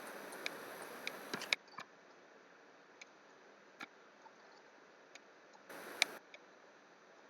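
Scattered, irregular clicks of a computer mouse and keyboard, with a short rustling hiss in the first second and a half and again about six seconds in.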